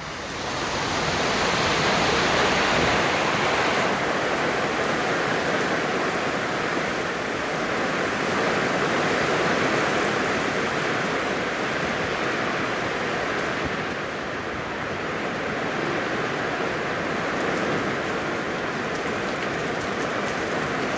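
Rain falling steadily, mixed with the wash of waves on the shore, as one continuous rushing hiss.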